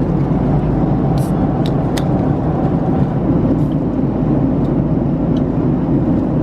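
Steady, loud cabin noise of a jet airliner in flight: a low, even rush of engine and air noise, with a few light clicks about a second and two seconds in.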